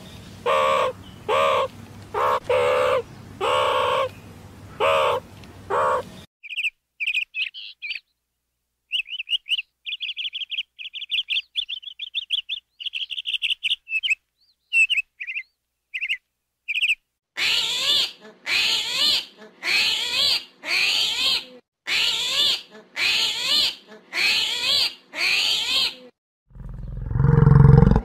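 A run of animal calls cut one after another: about ten loud harsh caws, then bouts of quick high bird chirping and twittering, then about a dozen loud calls evenly spaced less than a second apart with wavering pitch. Near the end a low big-cat roar begins and swells.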